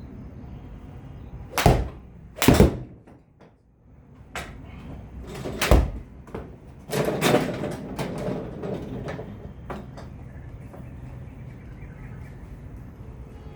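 A series of sharp knocks: two loud ones about a second apart near the start, then smaller knocks and thuds scattered over the next few seconds.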